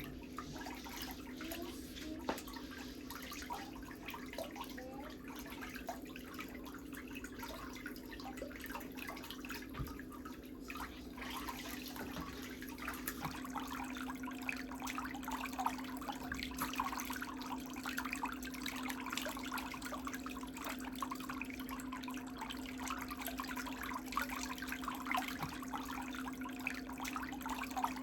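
Water trickling and splashing in irregular small drips over a steady low hum, the sound of feet being rinsed during a pedicure; the splashing grows busier about halfway through.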